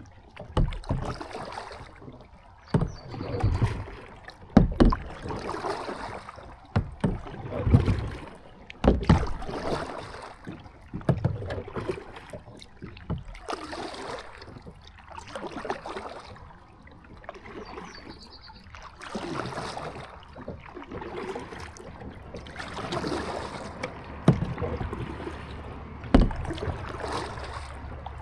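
Kayak paddle strokes, the blades dipping and pulling through the water with a splash about every second and a half. Sharp knocks come in now and then.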